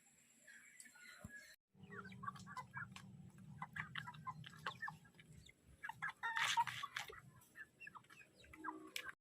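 Chickens clucking faintly in short scattered calls, starting after a couple of seconds of near silence, with a louder burst of calls a little past the middle.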